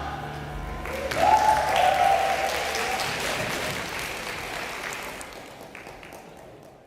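Audience applauding as the band's last chord dies away in the first second, with a held cheer just after; the applause then fades out near the end.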